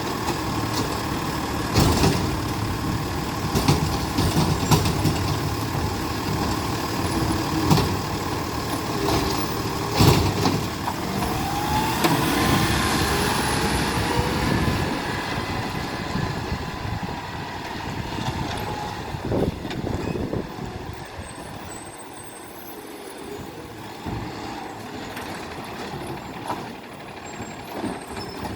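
Republic Services garbage truck working at the curb: diesel engine running, with sharp clanks and air-brake hisses and a rising whine about twelve seconds in. The truck grows quieter in the last third.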